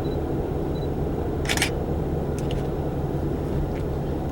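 Steady low engine hum and rumble, with one short sharp click about a second and a half in.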